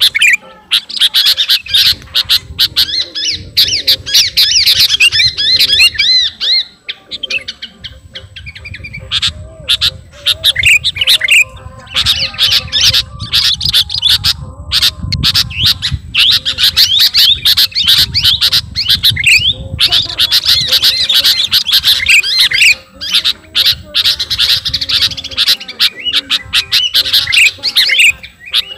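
Sooty-headed bulbul (kutilang) singing vigorously in a near-continuous stream of rapid chattering phrases and sharp, high notes. The song breaks off briefly a few times.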